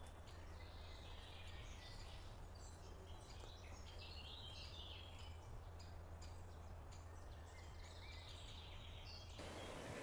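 Faint forest ambience: small birds chirping and calling on and off, over a steady low hum.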